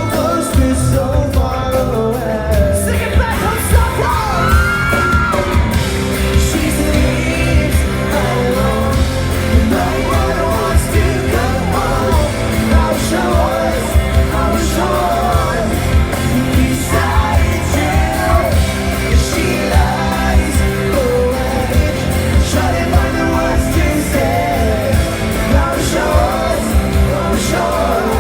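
A pop-rock band playing a song live, with a lead singer over a steady beat.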